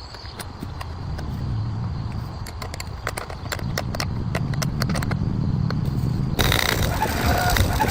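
Low engine-like rumble with a run of sharp clicks, then a loud hiss starting about six and a half seconds in.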